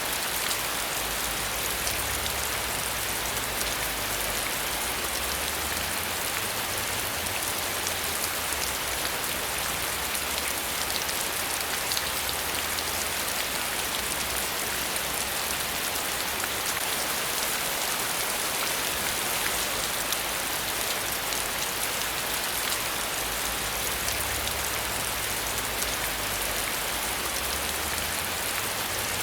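Steady rain falling, an even hiss with many fine drop ticks, over a faint low rumble that swells and fades.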